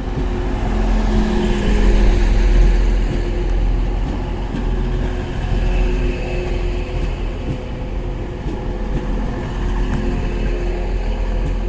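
Two coupled Class 185 diesel multiple units at the platform, their underfloor diesel engines running with a steady low rumble and hum, swelling slightly a couple of seconds in.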